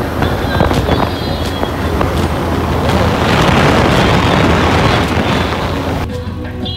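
Motorcycle riding at speed: wind rushing over the microphone over a steady low engine drone, growing louder in the middle. Music cuts back in near the end.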